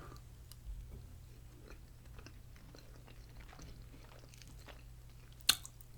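Close-miked chewing of a mouthful of fried spicy potatoes: soft, scattered small clicks of chewing, with one sharp click near the end.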